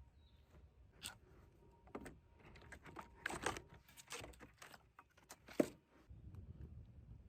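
A series of irregular light clicks and knocks with short rustles between them, and one sharper knock near the end.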